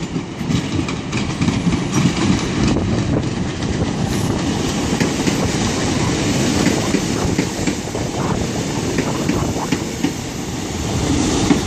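Three-coach diesel multiple unit, a Class 150 with a Class 153, running into the station at low speed: a steady engine and wheel rumble with scattered clicks of wheels over rail joints.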